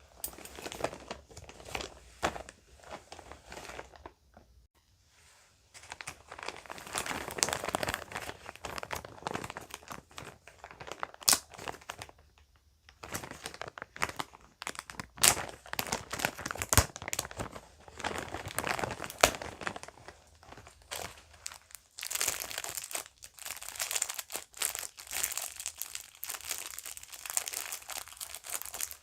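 A bag being crinkled and handled in bursts with short pauses, with a few sharp clicks in between.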